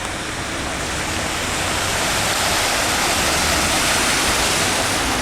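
Steady rush of floodwater running across the ground, loudest around the middle.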